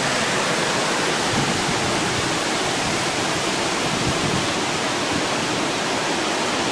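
Steady rushing hiss of a heavy storm downpour, even and unbroken.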